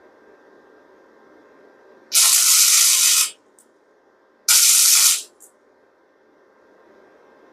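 Welding arc sizzling in two short bursts, the first about a second long and the second a little shorter: tack welds being laid on bolts.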